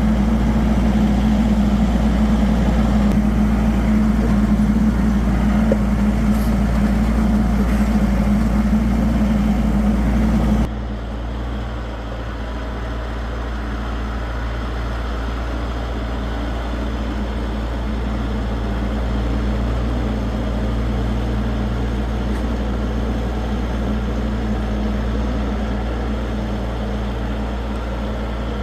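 LS compact tractor's diesel engine running steadily as it hauls a loaded tote. About a third of the way in, the sound drops abruptly to a quieter, duller drone that carries on steadily.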